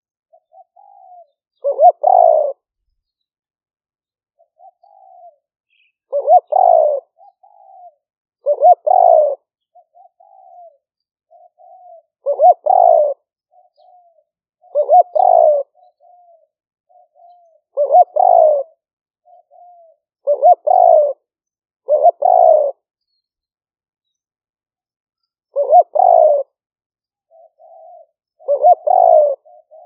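Spotted dove cooing over and over. About every two to four seconds comes a loud, short two-part coo, with soft short notes between the coos.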